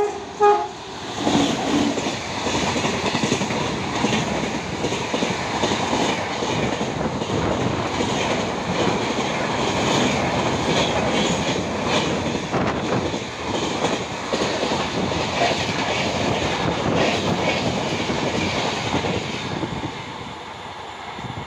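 Express train behind an electric locomotive passing at speed close by: a continuous dense rumble and clatter of the coaches' wheels over the rail joints. It opens with a brief horn note and eases near the end as the last coach pulls away.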